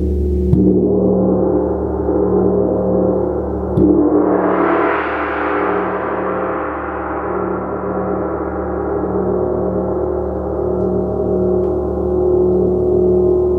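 Gong struck with a mallet, ringing in a long sustained wash of many tones. Fresh strokes land about half a second and four seconds in; the second swells brighter and then slowly fades, over a low hum that wavers steadily.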